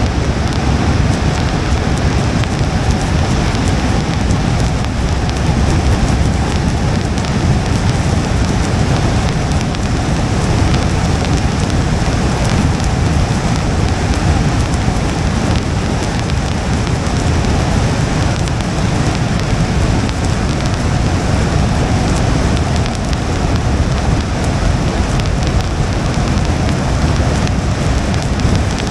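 Steady rain on a moving car mixed with low tyre and road noise from driving on wet pavement.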